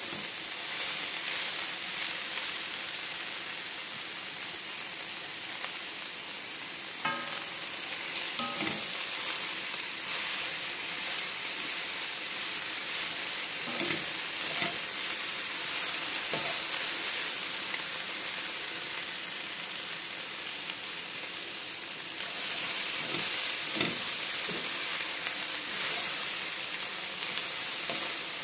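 Leeks, minced pork and fried tofu sizzling steadily in hot oil in a frying pan while being stir-fried with a wooden spatula. A few short knocks and scrapes of the spatula against the pan stand out, two around a quarter of the way in and a pair near the end.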